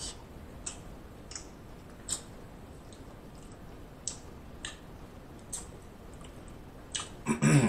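Chewing and mouth noises close to the microphone: scattered soft wet clicks and lip smacks, about eight over several seconds, then a short voiced hum near the end.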